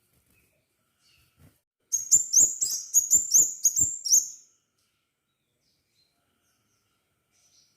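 Crimson sunbird calling: a fast run of about ten sharp, high chirps, each sweeping upward, at about four a second, starting about two seconds in and lasting some two and a half seconds.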